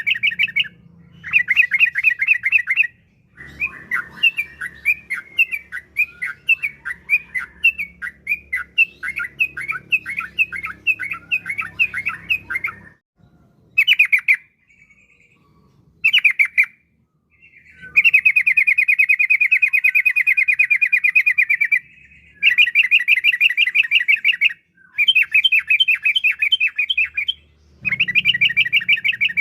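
Yellow-vented bulbul (trucukan) singing in loud, fast chattering trills, bursts of one to a few seconds broken by brief pauses, with a run of quick separate chirps early on and a longer unbroken rolling trill in the middle.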